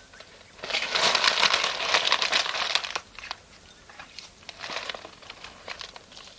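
A dense crinkling, rustling sound lasting about two seconds, starting just under a second in, then a softer rustle near five seconds, with scattered small crackles in between.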